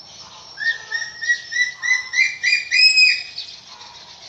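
Black eagle calling: a run of about ten short, shrill yelping notes that rise a little in pitch and grow louder. The last note is drawn out longer and ends about three seconds in.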